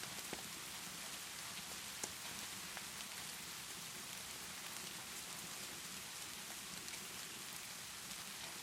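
Steady rainfall hiss with scattered sharp crackles and pops from a wood fire, one slightly louder about two seconds in.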